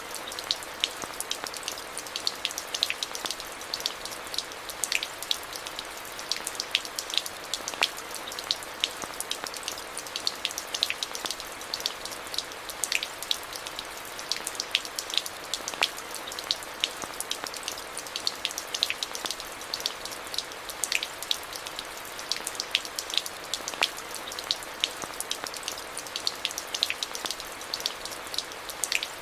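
Steady rainfall: a constant hiss with many sharp drop ticks landing close by, several a second.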